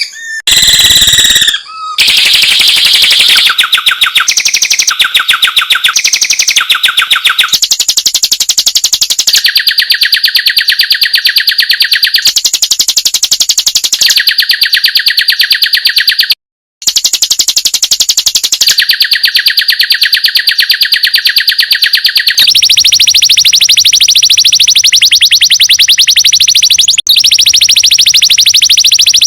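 Rapid, machine-gun-like 'tembakan' bird trill of the kind used as masteran audio for training songbirds: very fast, even pulses held at one pitch for a few seconds, then jumping to another. There is a short break about sixteen seconds in, and a higher, fuller rattle from about twenty-two seconds.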